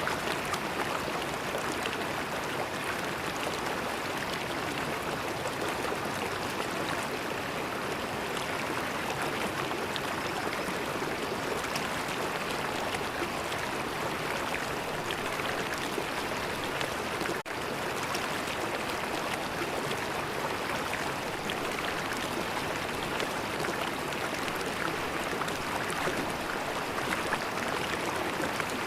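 River water flowing steadily, a continuous even rush, with a momentary dropout about halfway through.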